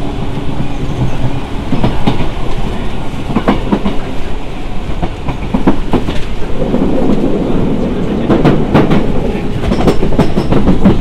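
Enshu Railway 1000 series electric train running, heard at the gangway between two cars: a steady rumble with many clicks and rattles, which grow busier in the second half.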